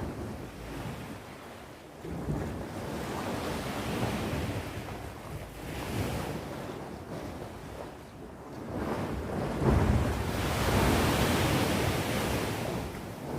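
Sea waves breaking and washing on the shore, swelling and fading in slow surges with the biggest wave breaking about ten seconds in; some wind on the microphone.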